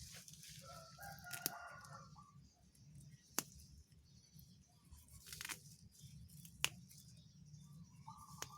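A rooster crows once, a call of about a second and a half starting about half a second in, with another call beginning near the end. A few sharp snaps are heard in between over a low steady background.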